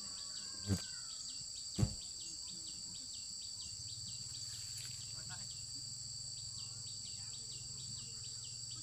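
Insects droning steadily at a high pitch, with a fast, even pulsing under the drone. Two sharp knocks sound about a second apart near the start, and a low hum joins about halfway through.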